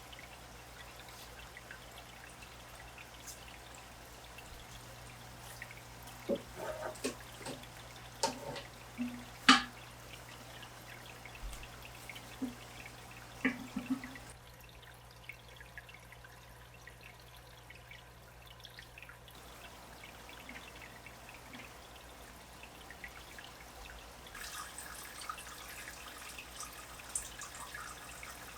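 Water dripping and splashing in small plops in an aquarium being set up, over a steady low hum, with a faint fizzing trickle near the end.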